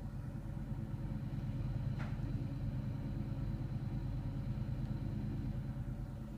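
Gas boiler running under test with its newly replaced fan and gas valve, a steady low mechanical hum. A brief click about two seconds in.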